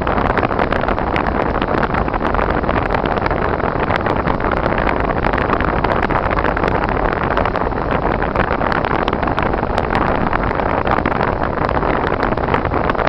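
Car driving on snowy, icy roads, heard from inside: a steady rumble of road and engine noise with many small ticks scattered through it.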